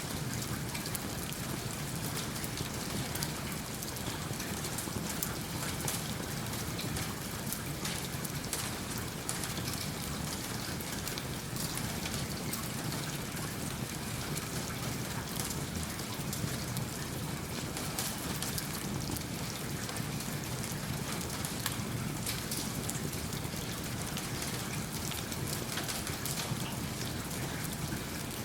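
Steady rain falling, mixed with the soft crackle of a wood fire in a fireplace, with many small pops and ticks scattered throughout.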